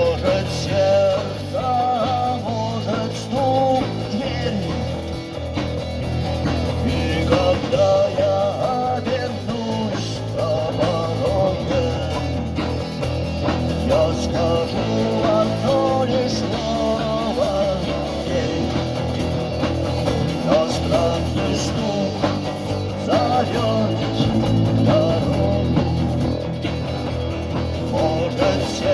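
Live rock band playing an instrumental passage: a wavering lead melody over guitars, a steady bass line and drums.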